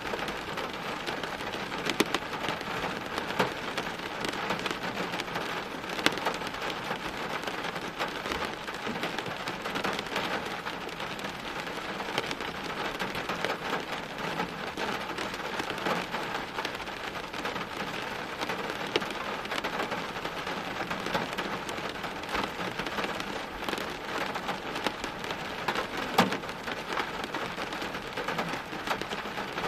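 Steady rain falling, a dense hiss with many close drops ticking on a hard surface and a few louder splats about 2, 6 and 26 seconds in.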